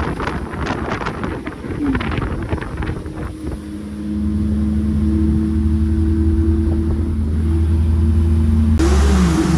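Wind buffeting the microphone in an open convertible, then, from about three and a half seconds in, the Chevrolet Opala's engine running as a steady low drone at cruise, heard from beside the driver. A wavering tone joins near the end.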